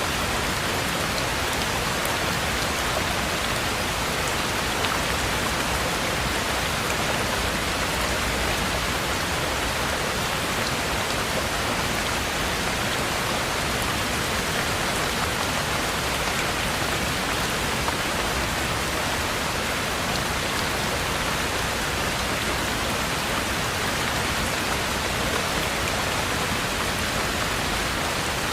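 Heavy rain falling steadily: an even, dense hiss that does not let up.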